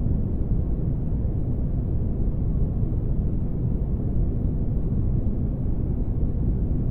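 Spaceship ambience: a steady, deep rumbling noise with a faint constant hum, unchanging throughout.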